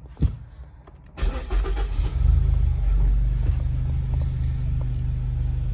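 2014 Mazda 3's 2.0-litre four-cylinder engine cranking and starting about a second in, then settling into a steady idle, its cylinder 2 misfire just repaired. A short knock comes just before.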